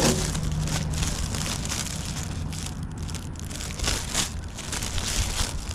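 Plastic dog-waste bag (a Mutt Mitt) crinkling as it is handled and unfolded, in irregular rustles.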